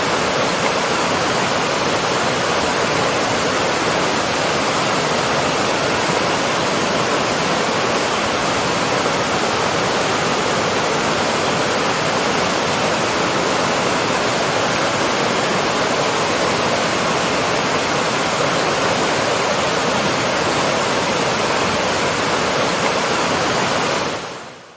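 Waterfall rushing in a steady, even roar of falling water, fading out quickly near the end.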